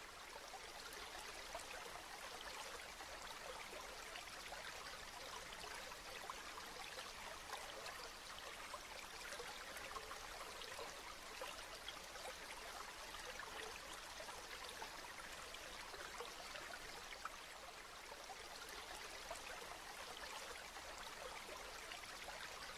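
Steady rain falling, a continuous patter of many fine drops.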